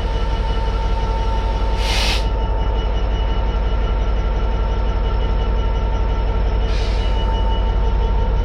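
Freight train passing at close range: a heavy, steady rumble with a constant whine, whose pitch begins to rise near the end, and two short hisses, about two seconds and seven seconds in.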